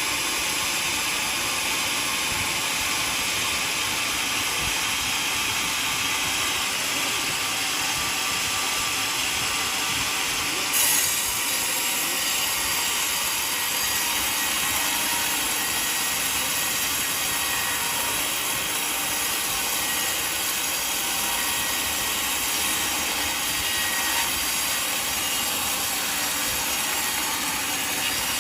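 Portable sawmill sawing through a mahogany log: steady, loud sawing noise, with a brief jump in level about eleven seconds in.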